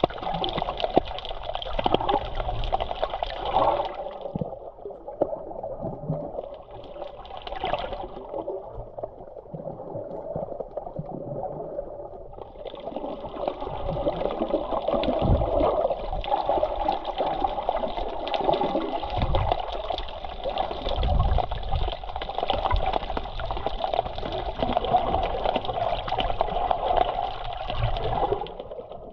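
Sea water washing and splashing close to the microphone, a continuous wash with low thumps. It turns duller for several seconds in the first half, then opens up again.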